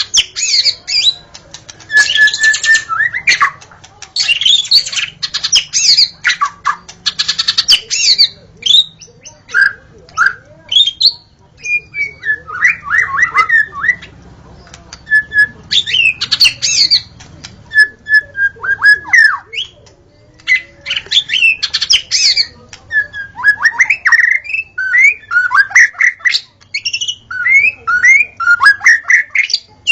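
White-rumped shama (murai batu) singing a loud, varied song. Fluid whistled phrases that sweep up and down alternate with fast, harsh rattling chatter, with short pauses between phrases.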